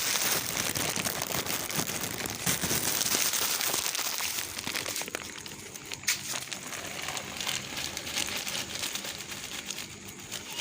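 Crinkling, rustling noise full of small crackles, loudest in the first half and easing off after about five seconds, with one sharp click in the middle.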